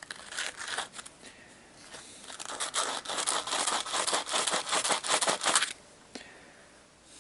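Sandpaper rubbed quickly back and forth over the copper commutator of a GAZelle heater fan motor to clean it, in fast scratchy strokes: a short run at first, then a longer run that stops suddenly near the end.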